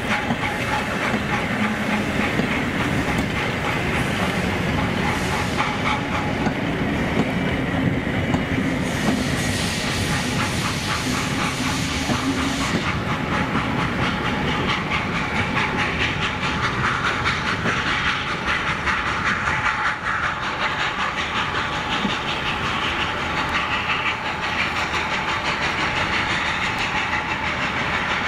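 Old passenger coaches of a steam-hauled train rolling past close by, their wheels clacking rapidly over the rail joints. A stretch of hissing rises over it from about nine to thirteen seconds in.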